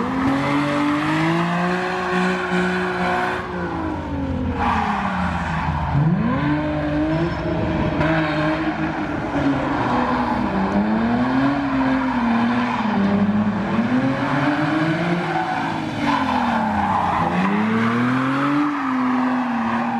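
A drift car's engine revving hard, its pitch climbing and falling again and again as the throttle is worked, over the continuous screech of sliding tyres.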